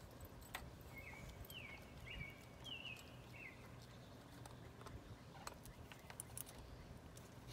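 Quiet outdoor background in which a small bird sings a short phrase of about six quick chirps, with a few faint clicks of bridle hardware being handled.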